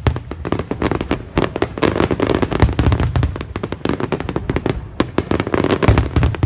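Massed aerial firework shells bursting in a rapid, unbroken run of sharp bangs, many a second, overlapping one another.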